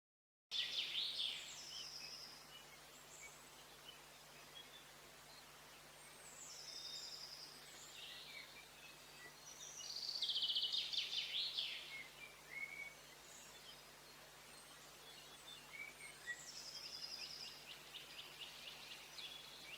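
Faint garden birdsong, starting suddenly about half a second in: several small songbirds calling in short high phrases, with a fast rattling trill about ten seconds in and another near the end. A faint low steady hum runs underneath.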